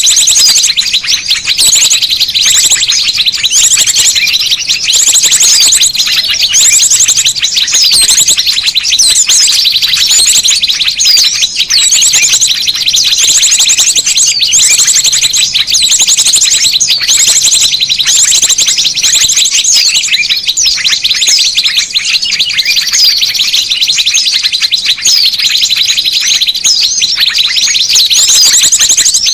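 Bird-lure recording of small songbirds' calls: dense, high-pitched chirping and rapid trills going on without a break, a recurring pattern about once a second, used to call small birds in.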